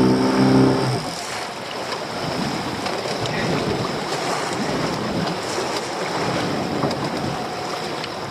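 Small fishing boat's engine running under throttle, dropping away about a second in, leaving wind on the microphone and choppy sea water rushing and splashing around the hull.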